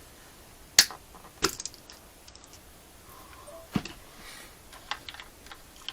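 A few sharp metal clicks and taps, spaced a second or more apart, as pliers work at a hydraulic valve lifter in the open cylinder head to pull it out.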